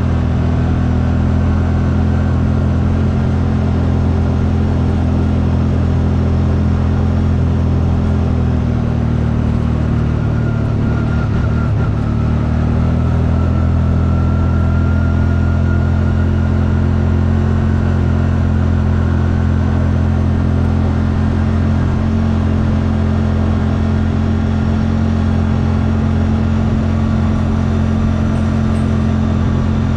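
CFMoto vehicle's engine running at a steady speed, its pitch wavering slightly about a third of the way in.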